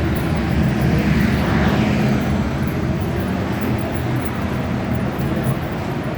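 Steady low rumble of subway station background noise, swelling briefly about a second in.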